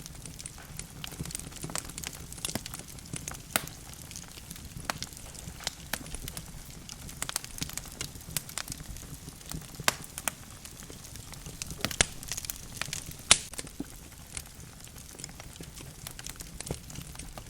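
Burning logs in a wood fireplace crackling, with irregular sharp pops and snaps over a steady low rumble of the flames. The loudest snap comes a little over thirteen seconds in.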